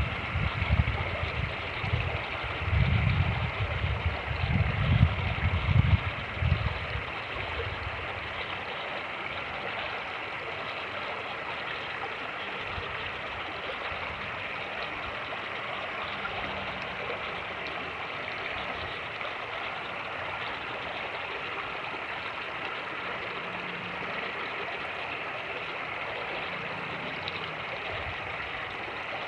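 Fast-moving creek water rushing steadily. For the first six or seven seconds, wind buffets the microphone in low gusts that then die away.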